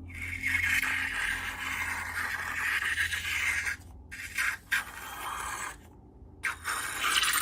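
Scraping and rubbing from slime-making by hand: a long stretch of about three and a half seconds, two short scrapes, then another scrape beginning near the end.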